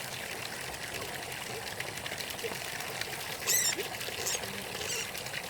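Water trickling steadily, with a short, high-pitched, wavering animal squeal about three and a half seconds in and a fainter one soon after.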